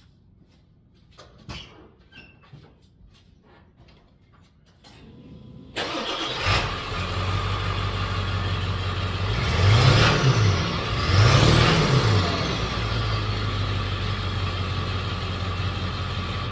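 Ford 7.3 Powerstroke V8 turbo-diesel starting up through its stock muffler and settling into a steady idle. It is revved twice in quick succession and drops back to idle each time. A few light clicks and knocks come before the start.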